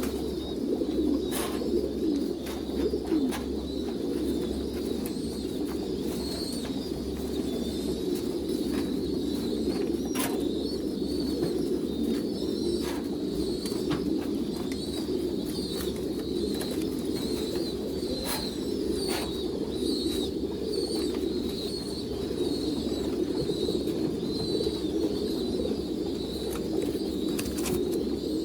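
A loft full of domestic pigeons cooing together in a dense, unbroken chorus, with scattered sharp clicks throughout.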